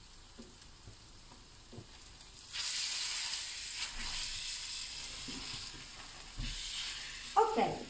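Battered cardoon pieces deep-frying in hot sunflower oil in a frying pan. The sizzle grows much louder about two and a half seconds in, as the pieces are turned with a fork, and eases off near the end.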